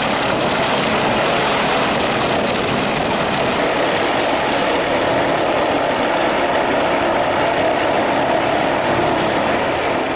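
Helicopter running, a loud, steady rotor and engine noise that starts to fade near the end.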